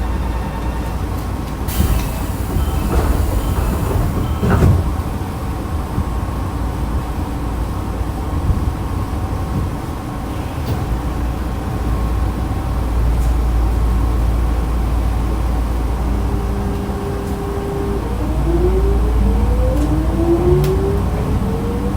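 Onboard sound of the Nankai train set 2036F: a short sharp door-closing sound with an air release about two seconds in, then the electric train pulls away, its traction-motor whine rising in pitch over the last few seconds as it accelerates.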